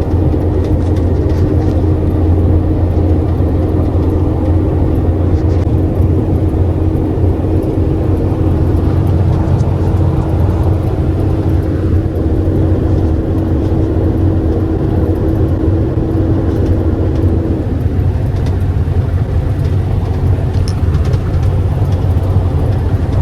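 Semi-truck engine and road noise heard from inside the cab while driving: a steady low drone. A steady higher hum in it stops about three quarters of the way through.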